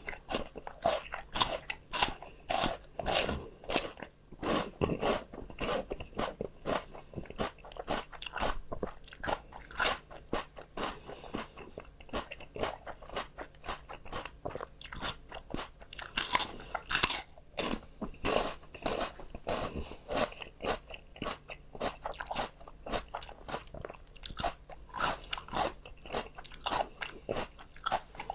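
Close-miked crunching and chewing of crisp raw vegetables: a run of sharp, crackly bites and chews with a few louder crunches along the way.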